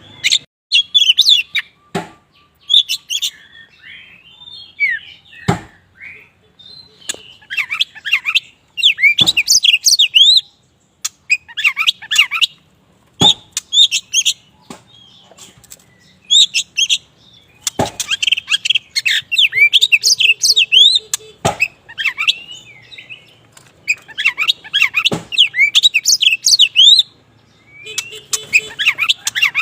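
Oriental magpie-robin of the black 'kacer wulung' form singing hard: bursts of quick, varied whistled phrases with short pauses between them, broken by a few sharp clicks.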